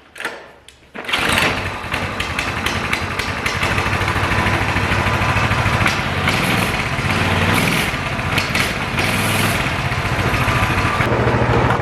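The small single-cylinder engine of a Coleman CT200U-EX minibike, with its governor removed, comes in sharply about a second in and runs steadily.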